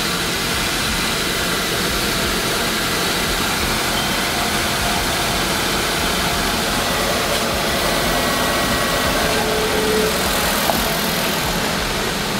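Nissan Almera Classic's four-cylinder engine idling steadily while its four-speed JATCO automatic pumps old transmission fluid out of the cooler line, the fluid running from a hose into a plastic bottle. This is the second flush pass of an ATF exchange.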